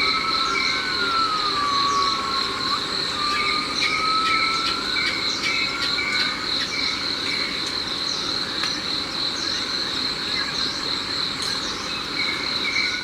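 Tropical rainforest ambience: a steady high-pitched insect drone over a pulsing insect chirp, with slow whistling calls that rise and fall.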